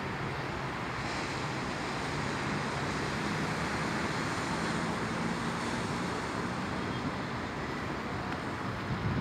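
Sea surf rushing steadily, swelling slightly through the middle, with a faint low hum underneath.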